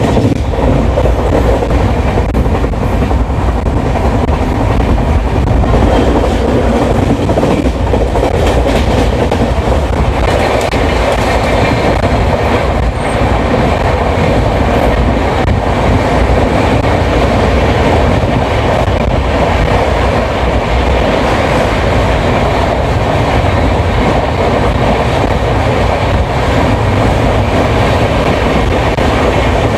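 Gondwana Express passenger train running along the line, heard from aboard: a steady, loud rumble of wheels on the track with clickety-clack over the rail joints.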